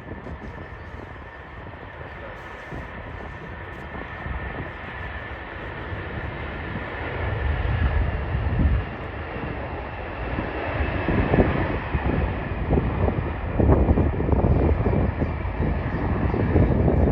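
Jet airliner's engines passing, a steady high whine over a rumble that grows steadily louder.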